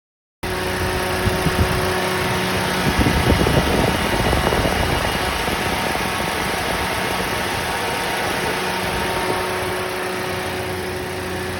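Toyota Rush engine idling with a steady whine over its running sound, the noise of a worn alternator bearing. A few sharp irregular knocks come in the first few seconds.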